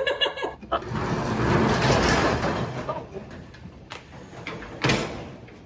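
Metal roll-up door of a storage unit being rolled open: a rattling rush that swells about a second in and fades over a couple of seconds, followed by two sharp knocks.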